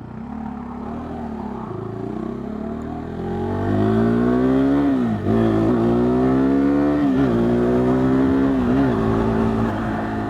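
KTM 390 Duke's single-cylinder engine accelerating, its pitch climbing and then dropping sharply at quick upshifts about five and seven seconds in, then running steady.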